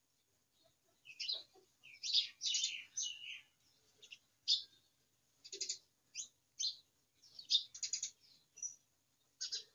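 Small birds chirping and twittering: many short, high calls, some sliding in pitch, starting about a second in and coming irregularly.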